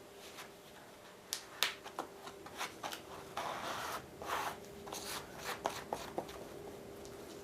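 Plastic spreader scraping and tapping stiff body filler on a mixing board as the filler is mixed with hardener: a run of sharp clicks and taps, with longer scrapes about three and a half and four and a half seconds in.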